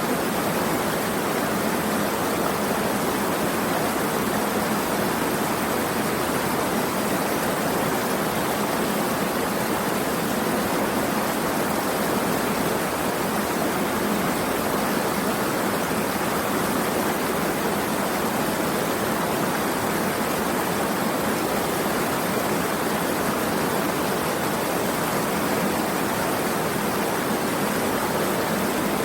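Steady rushing of flowing water, an even hiss that does not change, with no separate drops or splashes standing out.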